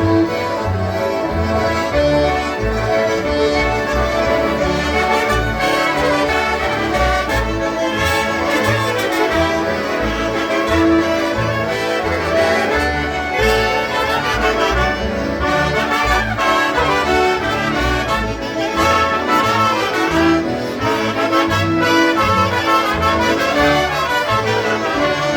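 A group of concertinas playing a polka in unison, with a steady pumping bass beat beneath.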